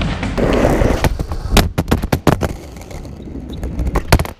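Skateboard rolling with a rumble, then a run of sharp clacks and slaps of the board, several close together in the middle and two more near the end.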